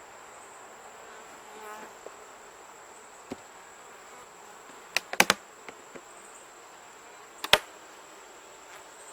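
Honeybees buzzing around an open hive, with a few sharp knocks: a quick cluster about five seconds in and another near the end.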